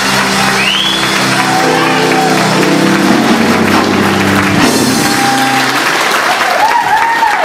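Audience applauding at the end of a song while the music's final chord is held, the chord stopping a little past halfway and the applause carrying on.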